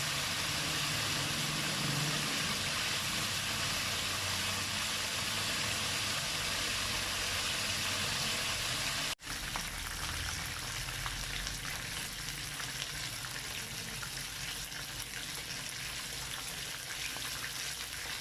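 Unbreaded chicken pieces frying in hot oil, a steady sizzle with crackling. The sound cuts out abruptly for an instant about halfway through and then resumes with more crackle.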